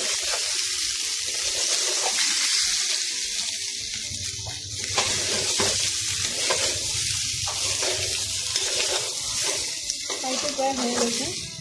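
Chicken pieces frying in a metal pan: a steady sizzle, with a spatula stirring and scraping them around the pan in irregular strokes.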